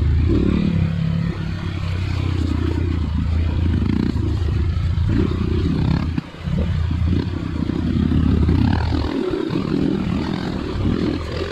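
Off-road trail motorcycle engine running at low, fairly steady revs, with a short drop in the throttle about six seconds in.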